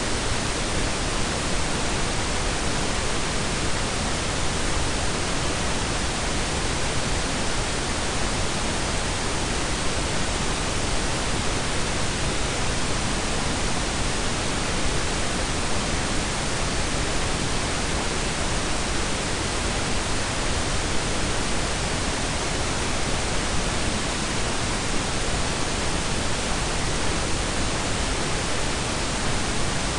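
Steady blend of pink and brown noise: an even, unbroken hiss with a deep low rumble, unchanging throughout.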